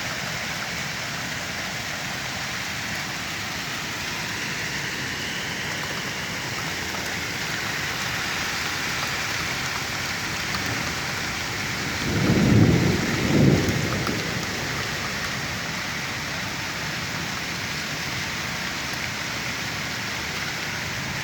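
Heavy rain and hail falling steadily. About twelve seconds in, a low rumble of thunder swells twice and fades.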